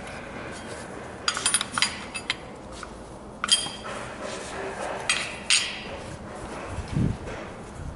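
Metal tools and engine parts clinking and tapping in irregular clusters, with a dull thud near the end; no engine cranking or running is heard.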